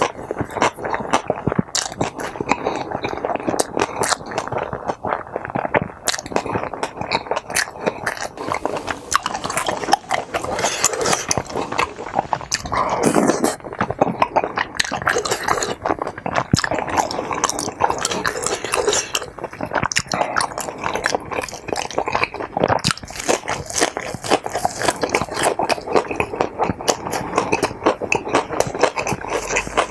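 Close-miked chewing and mouth sounds of someone eating tteokbokki and mini kimbap, with many short smacks and clicks.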